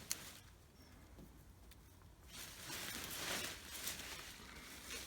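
Rustling and scraping of soil and sweet potato vines as tubers are dug out, louder from about halfway through, with a couple of sharp clicks at the very start.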